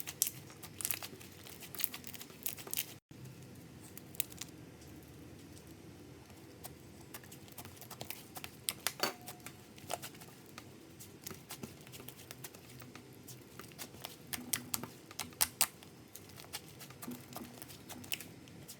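Butter slime, glue slime worked with soft clay, being squished and stretched by hand. It makes irregular soft sticky clicks and crackles, with a few sharper pops about nine seconds in and again around fifteen seconds.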